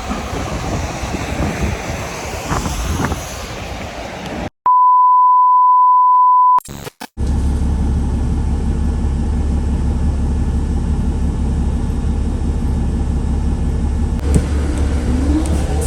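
Rumbling vehicle ride noise, cut off after about four seconds by a loud, steady electronic beep on one pitch lasting about two seconds in silence. After a short gap a steady low vehicle hum runs on.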